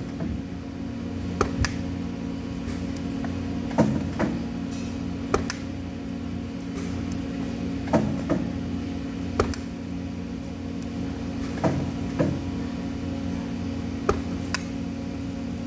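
Steady electrical machine hum in a welding shop, with sharp clinks of metal parts being handled, often in pairs, every two to four seconds.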